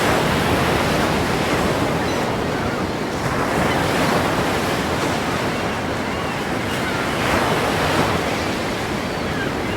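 Ocean waves breaking in continuous surf, swelling and surging about every three to four seconds.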